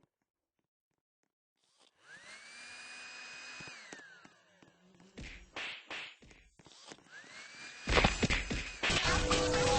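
Blow dryer switched on: its motor whine rises, holds steady for about two seconds and then winds down. A few knocks follow, and near the end it spins up again and is swamped by loud clattering noise.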